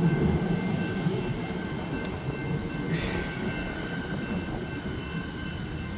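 Siemens Nexas electric suburban train passing over a level crossing with a steady low rumble of wheels on rail. A brief high squeal falls in pitch about three seconds in.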